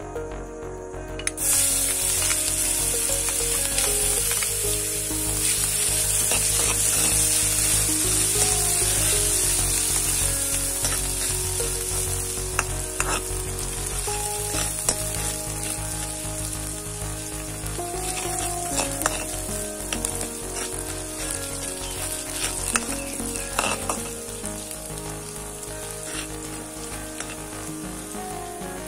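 Chopped garlic and ginger hit hot oil in an aluminium wok about a second in and sizzle steadily, the sizzle slowly dying down. A metal spoon scrapes and now and then clicks against the pan as it is stirred.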